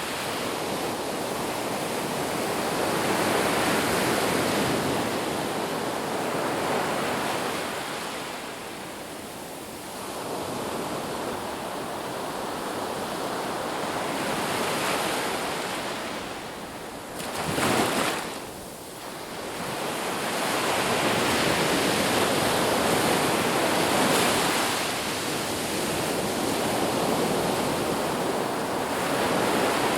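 Sea waves washing in and out on a shore, a steady rush that swells and fades in slow surges every few seconds. A short, louder surge comes a little over halfway through, followed by a brief lull.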